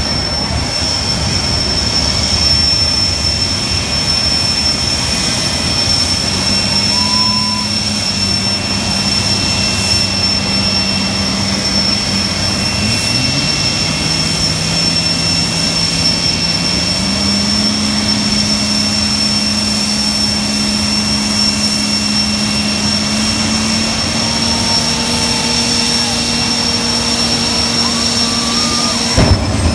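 Jet truck's jet engine running steadily, a loud roar with a constant high-pitched whine. Beneath it a lower engine hum steps up in pitch twice. The sound cuts off suddenly near the end.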